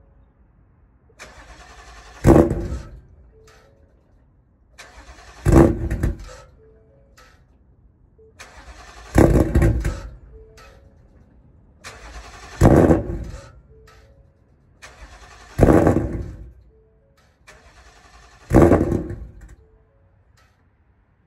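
Ford Mustang GT's 5.0 Coyote V8 on E85 being cold-started again and again. Six times the starter cranks for about a second, the engine fires with a loud burst from the exhaust, then dies away. It is a hard start: E85 fuel struggling to light off in sub-freezing cold.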